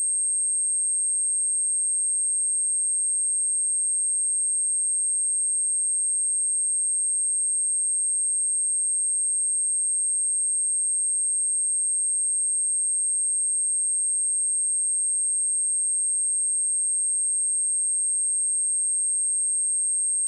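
A pure 8453 Hz sine-wave test tone, one high steady whistle at constant level, used as a speaker test and to shake water and dust out of a speaker.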